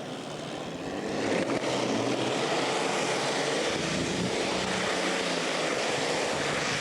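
A pulling tractor's big engine running loud and steady, growing louder about a second in.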